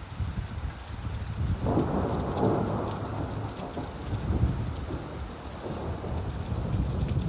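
Steady rainfall with a long roll of thunder that swells about two seconds in and rumbles away over the next few seconds.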